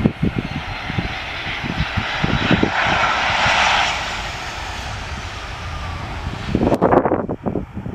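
Airliner engines passing, the noise swelling to a peak about halfway through and then easing, with a faint high whine. Wind rumbles irregularly on the microphone, loudest near the end.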